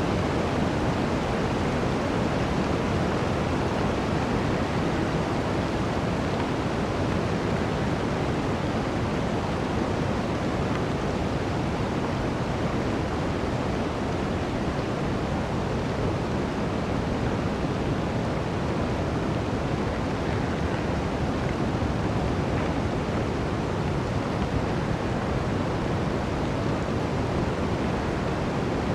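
Blizzard wind: a steady, even rushing noise, heaviest in the low and middle range, with no gusts, breaks or crackles.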